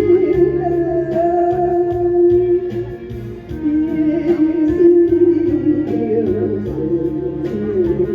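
A Taiwanese Hokkien ballad sung over instrumental accompaniment. The voice holds long, wavering notes, with a short break about three seconds in.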